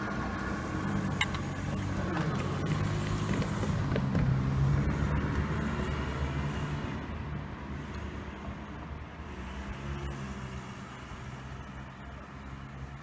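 Seibu 30000 series electric train running away along the track, its low rumble and hum growing a little, then fading as it recedes into the distance.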